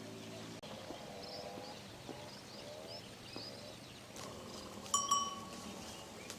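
Farm animals calling with wavering cries, and faint high chirps. A bright ringing clink, the loudest sound, comes about five seconds in.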